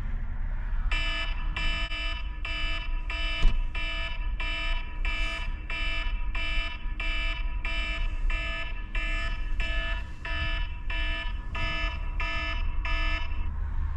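A wake-up alarm beeping in even, pitched pulses, about two a second, over a low steady rumble, with a single thump about three and a half seconds in.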